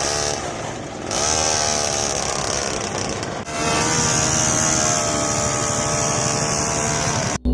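Small motor of a homemade mini model tractor running with a buzzing drone. Its pitch rises and falls during the first few seconds, then holds steadier after a short break about halfway through, and the sound cuts off just before the end.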